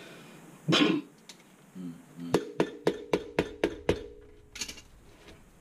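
A quick run of about eight sharp metallic taps, about five a second, each leaving a short ring: a tool striking metal on a garbage disposal's fittings.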